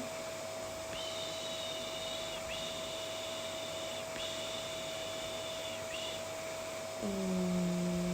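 Vacuum cleaner running steadily with a constant hum. Three long high-pitched held tones sound in the first half. About seven seconds in, a person's low droning "eee" begins: the soothing hum used for a colicky baby.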